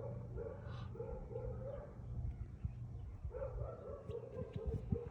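A dog barking in two quick runs of short barks, about three or four a second, over a steady low hum.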